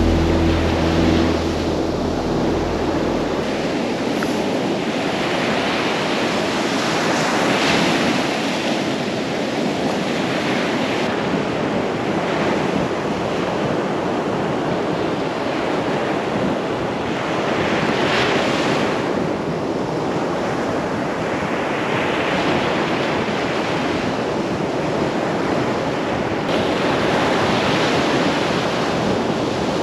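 Gulf of Mexico surf washing onto the beach, a steady rush with a louder wave breaking every several seconds.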